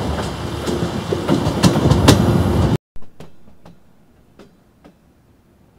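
Train coaches running at speed over a river bridge, heard from an open carriage door: a loud rumble of wheels on rail with the clickety-clack of rail joints. It cuts off abruptly about three seconds in, leaving only faint ticks.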